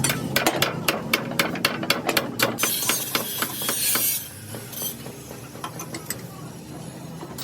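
Hammer blows on steel, rapid and repeated at about four or five a second and then fainter and sparser, with a brief hiss about three seconds in.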